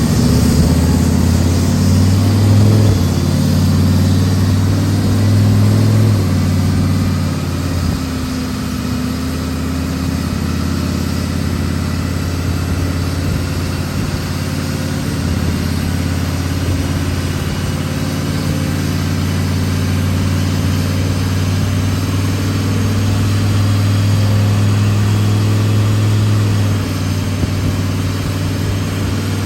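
Turbocharged Chevrolet Silverado engine running on a chassis dyno at light load, held fairly steady with small changes in engine speed. It is being run gently while the tune's drivability is sorted out, before any full pulls.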